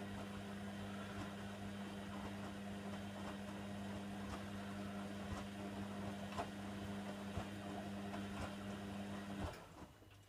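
Hoover Nextra HNWL7146 washer dryer running mid-cycle: a steady low hum with light clicks about once a second, which cuts off suddenly about nine and a half seconds in.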